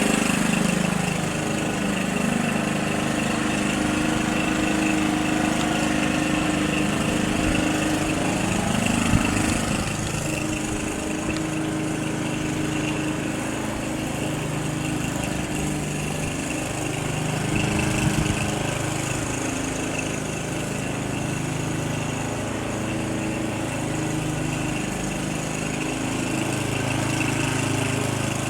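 A small engine running steadily, its pitch wavering slightly throughout.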